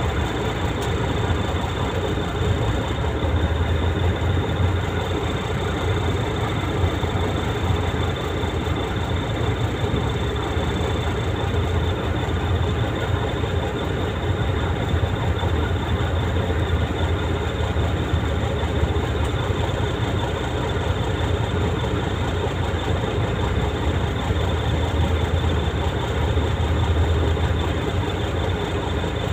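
Heavy truck's diesel engine running steadily under way, a deep low drone with the rattle and road noise of the truck.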